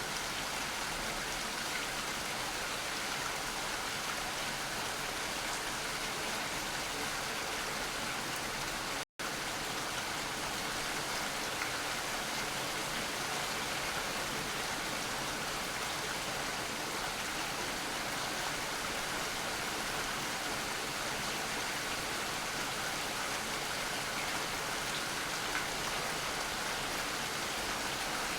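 Steady rain falling, an even hiss with no breaks in intensity. About nine seconds in the sound cuts out completely for a split second, then the rain resumes.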